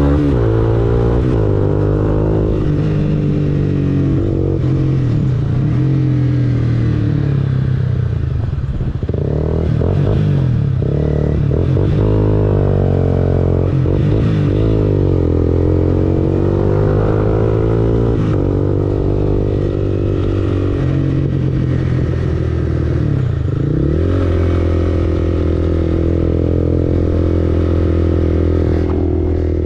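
Honda CBR250R's single-cylinder engine running through an Akrapovic aftermarket exhaust, its revs climbing and dropping again and again, with sharp dips about a third of the way in and again about three quarters of the way through.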